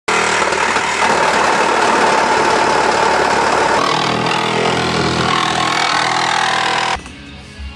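Loud, steady motor noise that stops abruptly about seven seconds in, giving way to quieter background music.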